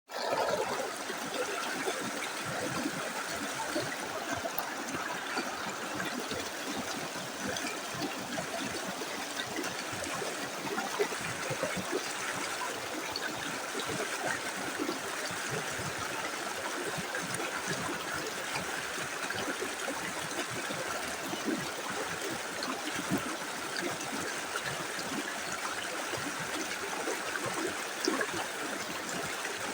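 A small river flowing over stones: steady babbling and gurgling of running water, with many small splashes.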